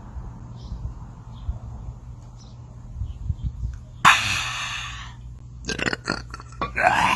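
A man belching after a swig of beer: a sudden loud belch about four seconds in, then more short belches near the end.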